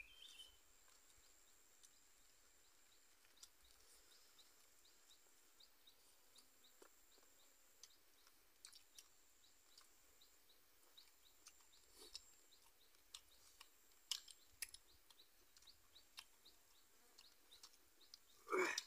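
Quiet eating by hand: scattered faint lip smacks and chewing clicks, with faint short high chirps repeating in the background. A brief louder sound comes just before the end.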